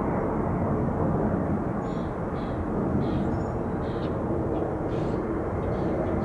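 Steady rumble of jet airliner engines, with a few short high chirps over it.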